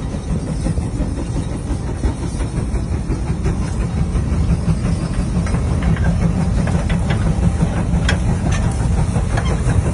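Steam traction engine running: a steady low rumble with steam hissing over it, and a scatter of mechanical clicks and clanks that grows busier from about five seconds in.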